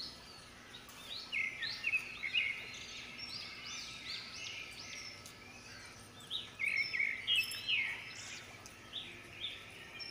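Small birds chirping and twittering: many short, high, quick notes, busiest about a second in and again past six seconds, over a faint steady outdoor background.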